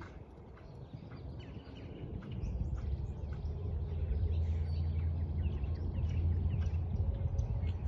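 Birds chirping and tweeting over and over, over a low steady rumble that builds from about two seconds in and becomes the loudest sound.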